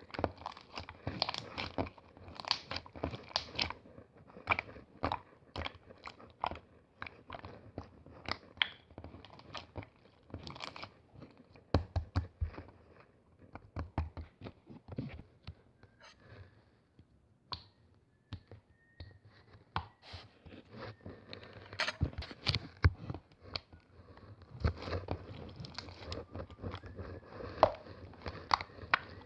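Hands squishing, pressing and poking slime: a dense, irregular run of crackling, popping clicks, with a quieter stretch about halfway through.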